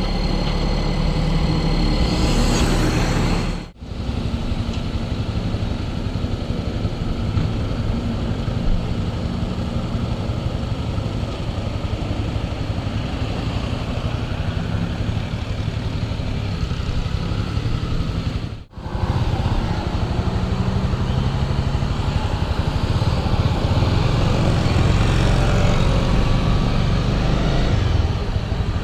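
Steady motor vehicle engine and road noise, breaking off briefly twice.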